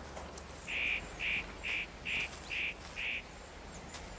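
An animal giving six short calls in a quick, evenly spaced series, about two a second, starting near the first second and stopping about three seconds in.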